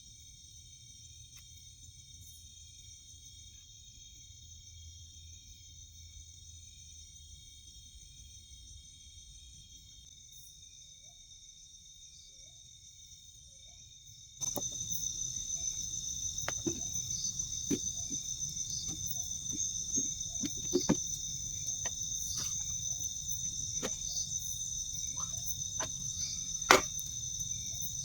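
Night insects such as crickets chirring steadily as several high, unbroken tones. About halfway in, the chirring suddenly grows louder and is joined by scattered knocks and clicks, with two sharp, loud knocks near the end.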